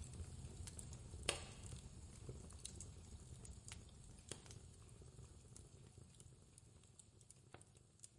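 Fireplace crackling: scattered sharp pops and snaps over a low rumble, with the loudest pop about a second in. The whole sound slowly fades.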